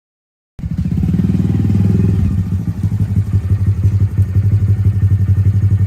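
Motorcycle engine running with a rapid, even low throb. It cuts in abruptly about half a second in and stops just as suddenly at the end.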